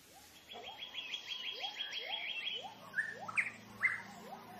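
Several forest birds calling: a fast trill of high repeated notes for about two seconds, over a string of short rising lower notes, with a few louder sharp calls near the end. A low steady hum comes in during the second half.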